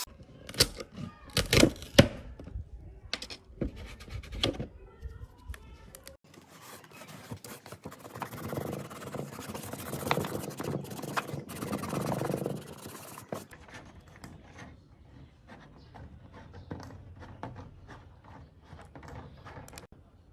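Hand work on parts at a workbench: several sharp knocks in the first few seconds, then about seven seconds of scraping or rubbing, then scattered light clicks.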